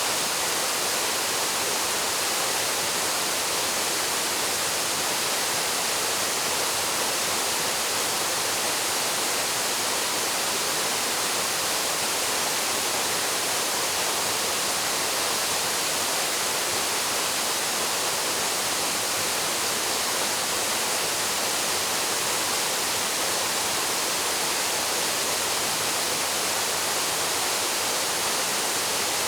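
Waterfall pouring steadily: an even, unbroken rush of falling water, bright and hissy with little low rumble.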